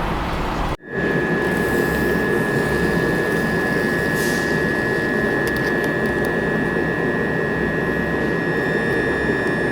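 An electric train standing at the platform with its onboard equipment running: a steady hum with a constant high whine. The sound cuts out briefly about a second in, then resumes.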